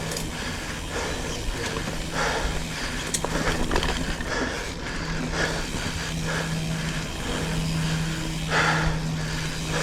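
Mountain bike riding a rooty dirt trail: tyres rumbling and the bike rattling and clicking over bumps, with the rear freehub buzzing in stretches of coasting and dropping out in between.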